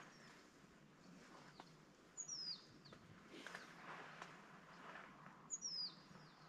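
Near silence except for a bird's high, clear whistle that falls in pitch, given twice about three seconds apart, with a few fainter chirps between.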